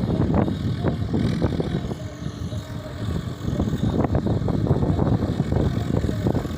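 Tractor diesel engine running, with a rapid, irregular clatter of knocks over its steady low sound.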